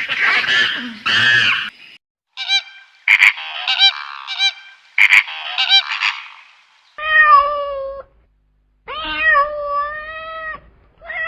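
A cat meowing: three long meows, each about a second, in the second half. They come after a run of shorter, higher-pitched animal calls.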